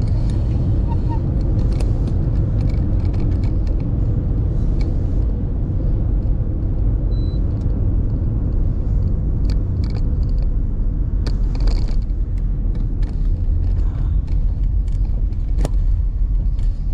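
A car driving along a road: a steady low rumble of engine and road noise, with a few faint clicks now and then.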